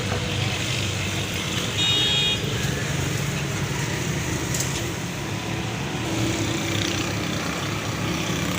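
Steady traffic noise with a short vehicle horn toot about two seconds in.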